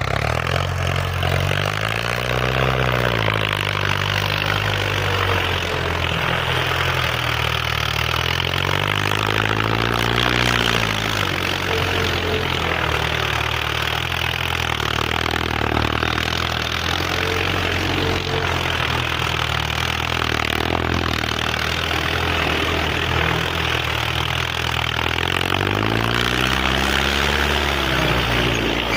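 Tractor engine running hard, its speed rising and falling several times as it is revved and loaded.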